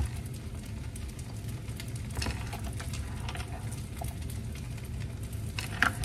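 Kimchi fried rice frying in a wok: faint crackling over a steady low hum, with two soft taps, about two seconds in and near the end, as sliced green onions go in.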